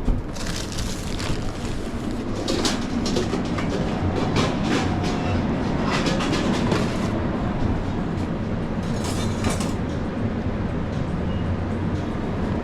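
Commercial kitchen noise: a steady low hum of kitchen machinery under repeated clattering and knocking of utensils and cookware. The clatter is busiest in the first half and comes again briefly about nine seconds in.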